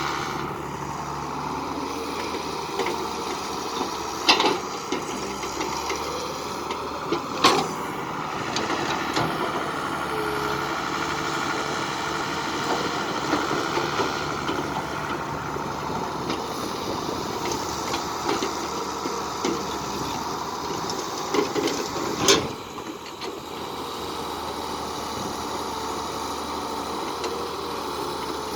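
Engines running steadily, with three sharp knocks or clanks standing out above the drone.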